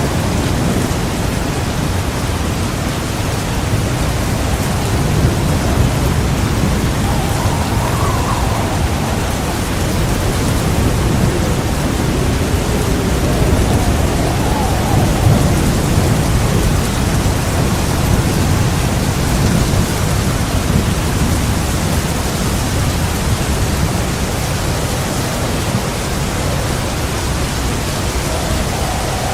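Heavy rain pouring steadily, with a low, continuous rumble of rolling thunder underneath; no sharp thunderclap.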